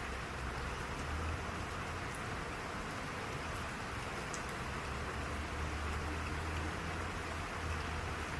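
Steady rain falling, an even hiss with a few faint drop ticks, over a low rumble that swells and fades.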